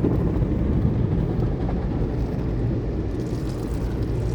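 Automatic tunnel car wash running, heard from inside the car's cabin: a steady low rumble of the wash machinery and spray.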